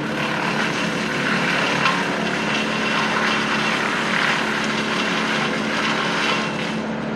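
A steady engine drone with an even hum, with no clear rise or fall.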